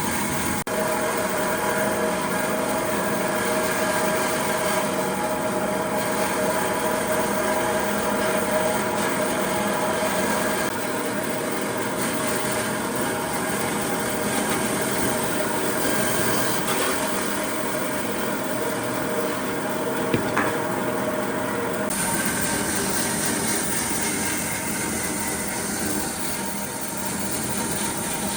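Electric power tool running steadily with a motor whine while working wood. The sound changes abruptly about a third of the way in and again near the end.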